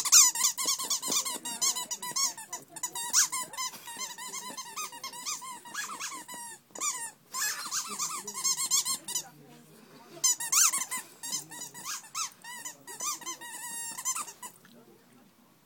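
A dachshund chewing a squeaky toy: rapid squeaks one after another, with a couple of short breaks, stopping about a second before the end.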